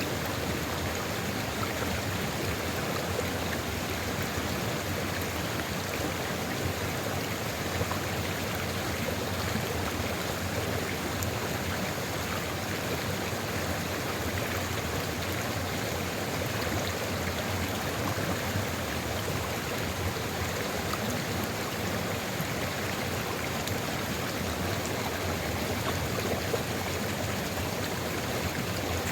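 Sulfur river flowing steadily: an even, continuous sound of running water.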